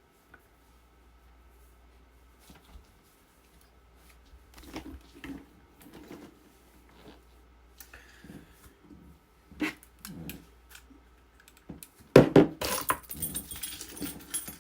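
A dog making small whining sounds among light handling clicks, then, about twelve seconds in, a loud jangling rattle that goes on to the end.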